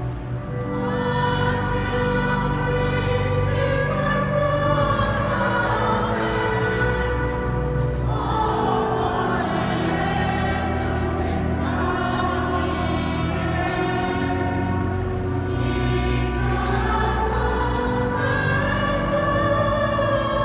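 Choir singing a sacred choral piece in several parts, the voices swelling and moving in long phrases over steady low held notes.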